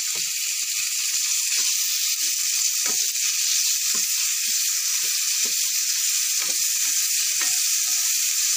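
Raw chicken pieces sizzling in hot ghee in a non-stick frying pan: a steady hiss, with scattered small knocks from a spoon spreading the pieces about.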